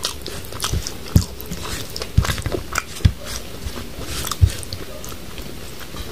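Close-miked chewing and wet mouth sounds of a person eating rice and curry by hand, with scattered sticky clicks and a few short low knocks.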